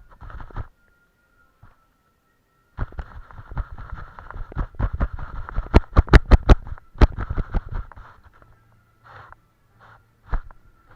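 Paintbrush scrubbing and dabbing on a canvas, in short scratchy strokes with dull knocks, and a quick run of about eight sharp taps around the middle; it thins out to a few scattered strokes near the end.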